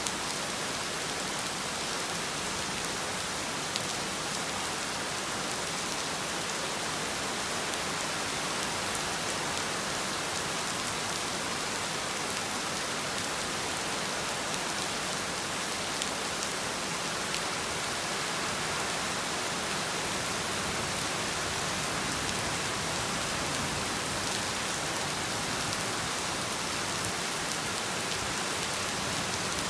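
Heavy rain falling steadily, a dense even hiss with the patter of individual drops hitting surfaces.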